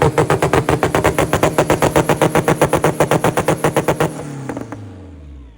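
Acura Integra engine held on a two-step launch limiter, the ignition cut making a rapid string of exhaust pops, about ten a second. About four seconds in the driver lets off and the revs fall away.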